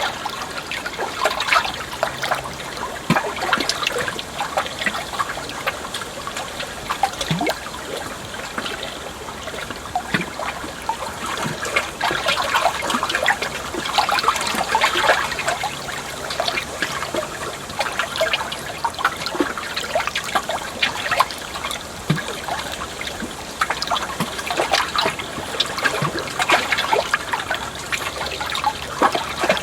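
Water trickling and splashing steadily, with many small bubbling splashes.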